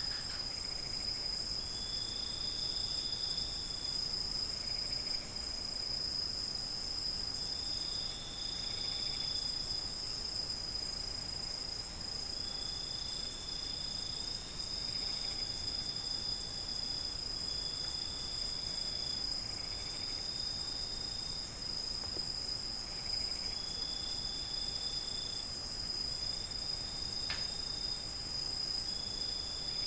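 Night chorus of crickets: a continuous high-pitched drone, with a separate shorter trill of a second or two repeating every few seconds.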